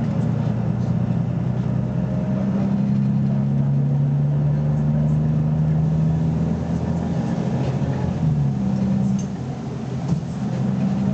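BMC Belde 220-SLF city bus engine running under load, heard from on board, with a steady low drone. The drone wavers and eases about eight seconds in, then picks up again.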